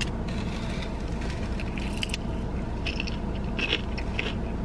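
Crunchy bites and chewing of a fried cream cheese rangoon's crisp wonton wrapper: a few scattered crunches over a steady low hum of car air conditioning.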